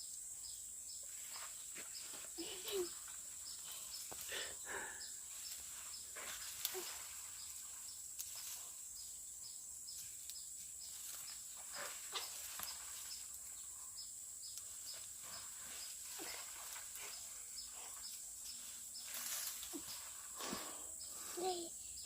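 Steady high-pitched drone of insects in the vegetation, with a faint regular ticking. Scattered short rustles and knocks come through it.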